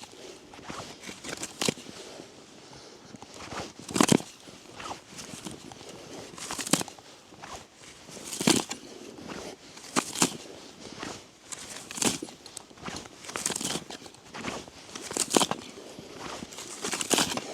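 Footsteps crunching through deep snow, one slow step every one and a half to two seconds.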